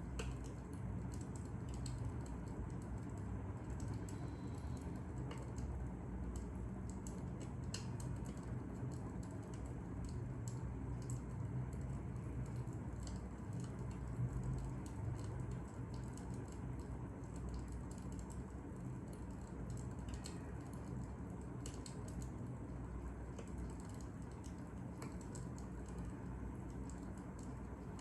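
Fire crackling: small irregular pops and snaps over a steady low rumble.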